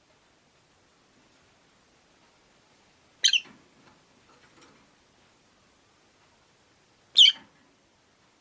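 Rosy-faced lovebirds giving two short, shrill, high-pitched calls, about four seconds apart.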